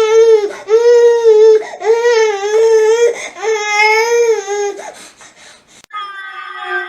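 Infant crying hard: about five loud, high wails of roughly a second each, broken by quick catches of breath, then a second of quieter breathy sobs. Near the end an abrupt cut brings in a different steady, pitched sound.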